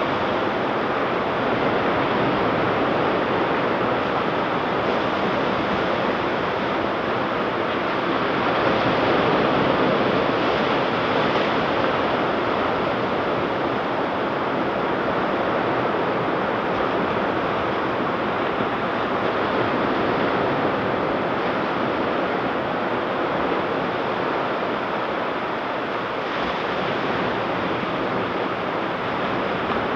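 Ocean surf washing onto a beach: a continuous rush of breaking waves, swelling a little louder now and then as sets come in.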